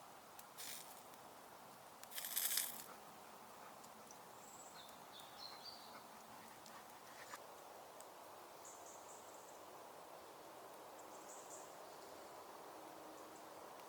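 Faint outdoor forest ambience: a steady low hiss with a brief rustling crunch about two seconds in and a few faint high chirps.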